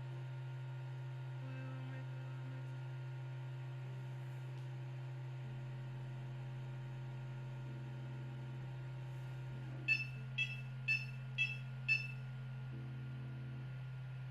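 Powered-up Creality Ender 3 3D printer humming steadily, loud with its original controller board. Near the end come five short high beeps about half a second apart.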